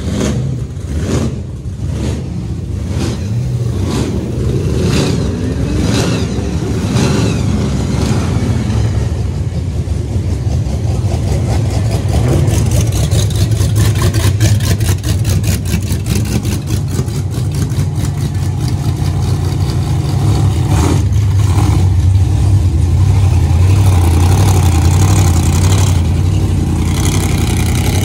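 Modified street-machine V8 engines on cars moving slowly past. There is a run of sharp, repeated revs over the first several seconds, then a loud, steady idle with a fast, even pulse.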